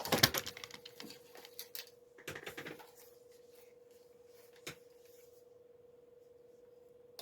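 Close handling noise: a burst of clicks and rattles in the first second, a second cluster about two and a half seconds in, and a single click near five seconds, over a faint steady hum.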